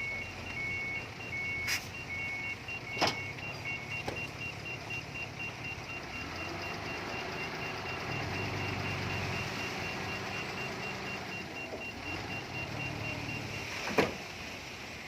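Heavy earthmoving machinery's diesel engine running, building up and rising in pitch about six seconds in, with a reversing alarm beeping on and off for the first four seconds and a second, faster beep throughout. Sharp metal clanks about two and three seconds in, and a louder clank near the end.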